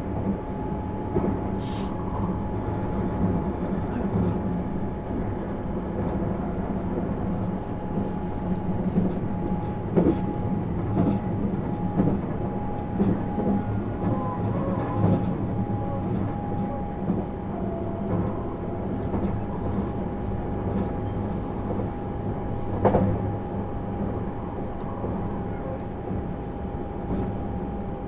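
Cabin running noise of a 651 series electric train underway: a steady rumble with a thin steady whine, and now and then a sharp knock from the wheels over rail joints.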